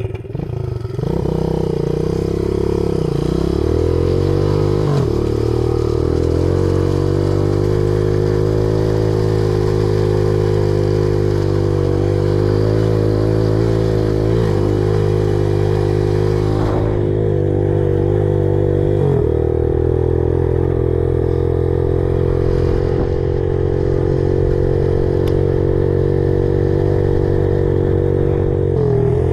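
Engine of a 35-year-old four-stroke pit bike running, its pitch rising and falling a few times in the first several seconds and then holding mostly steady.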